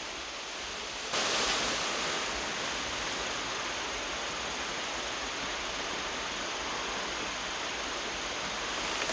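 Steady rushing outdoor noise with no distinct events, jumping up in level about a second in and then holding even.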